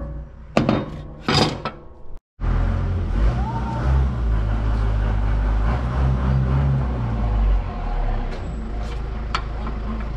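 A few sharp knocks, then after an abrupt cut a motor vehicle engine running steadily at low, even revs.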